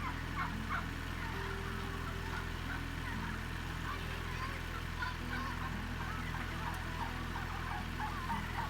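A flock of turkeys calling: many short, overlapping calls throughout, over a steady low hum.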